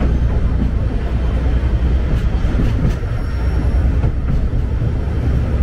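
Sagano Romantic Train carriage running along the track, heard from on board: a steady low rumble with a few light wheel clicks.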